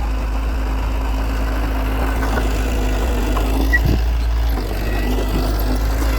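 Heavy diesel earthmoving machinery running steadily, with a short low thump about four seconds in.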